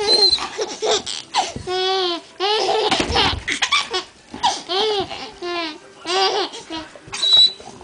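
A baby laughing in a run of short, high-pitched peals, one after another, with a dull thump about three seconds in.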